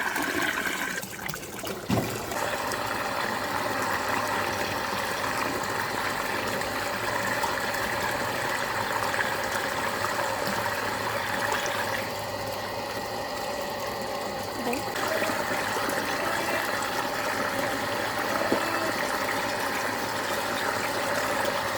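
Steady rush of flowing water with a small water pump running under it, feeding a miniature whirlpool. There is a short dip and a sharp click about two seconds in.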